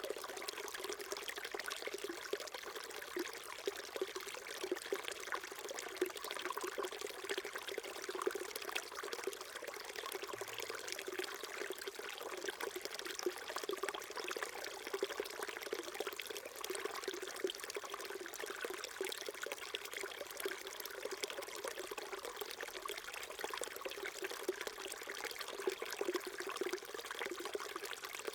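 Small stream flowing steadily over rocks: continuous trickling and babbling water with no change.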